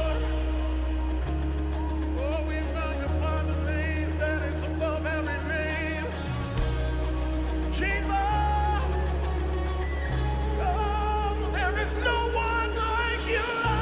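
Live worship music: held bass and keyboard chords that change every couple of seconds, with a voice singing wordless, wavering runs over them.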